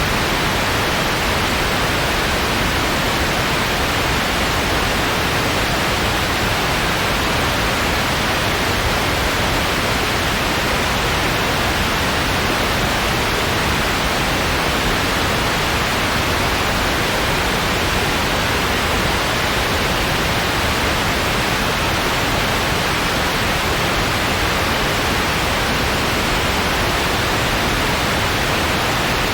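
Steady, even white-noise hiss, unchanging throughout.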